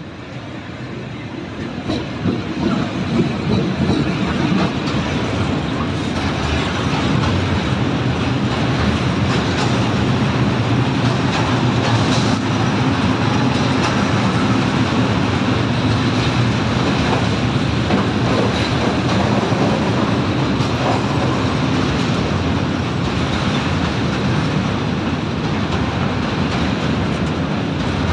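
Freight train of tank wagons hauled by an electric locomotive passing close by. The sound swells over the first few seconds as the locomotive goes past, then settles into a steady rumble of wagon wheels with clicks over the rail joints.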